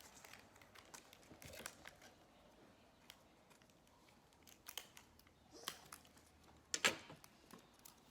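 Paper and tape being handled in crafting: faint rustles and small clicks, with a couple of louder crinkles about five and a half and seven seconds in.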